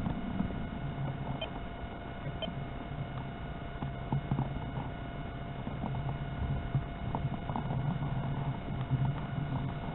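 Strong wind buffeting the microphone in an uneven low rumble, with a faint steady hum under it.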